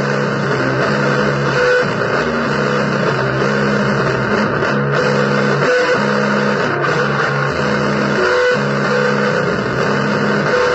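Loud noise-blues music: an electric guitar repeats a low riff, a short figure of a few notes about every second, with higher notes now and then, buried in a dense wash of hissy noise.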